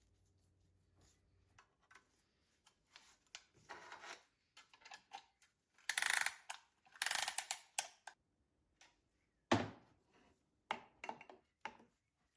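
Hand tools and metal engine parts clicking and clattering during engine disassembly, with two louder rasping passes about six and seven seconds in and a single sharp knock near ten seconds.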